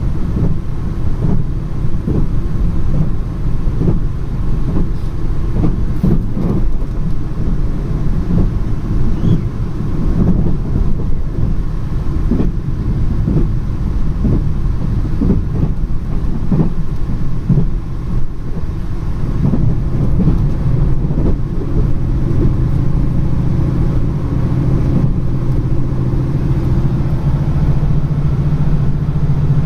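Train running: a heavy rumble with irregular knocks from wheels on track, and from about two-thirds through a steady low drone joins in.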